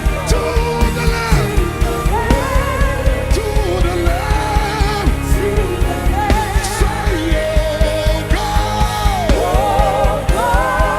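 Live worship music: a voice singing long held notes with vibrato, phrase after phrase, over a band with a steady beat.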